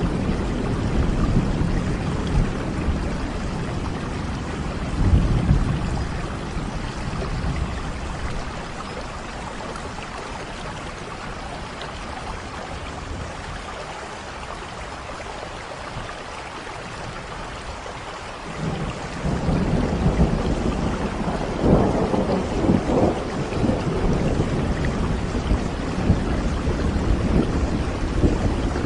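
Steady rain with rolling thunder. The rumble is heavy at first, eases off through the middle, and builds again from about two-thirds of the way through.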